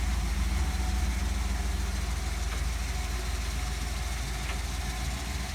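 1957 Ford Thunderbird's 312 V8 with a single four-barrel carburettor idling steadily.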